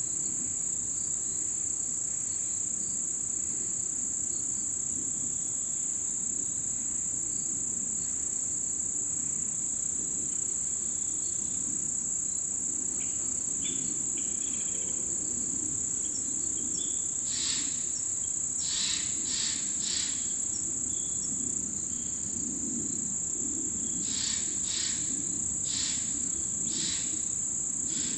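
Chorus of autumn insects singing a steady, unbroken high trill. Two short clusters of sharper chirps stand out over it, about two-thirds of the way in and again near the end.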